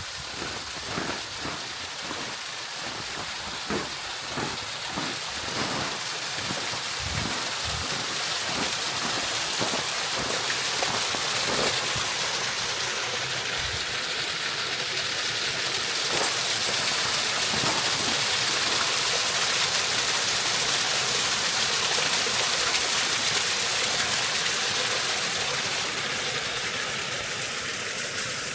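Rushing water of a valley stream, a steady hiss that grows louder over the first half and then holds. Irregular soft knocks sound through the first dozen seconds.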